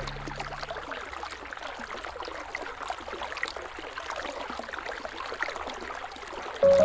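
River water flowing and trickling, a steady rush with many small splashes and drips. Low music notes fade out in the first second, and music comes back in suddenly near the end.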